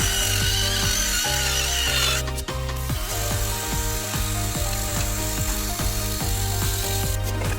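Background music with a steady beat over the sped-up scrubbing of a powered brass cup brush stripping rust from a stainless steel muffler, its high scratchy sound cutting in and out at edits.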